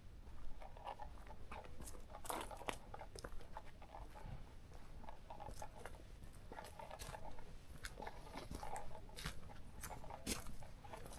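Footsteps crunching on the forest floor while walking, an uneven run of crunches with small sharp clicks and snaps.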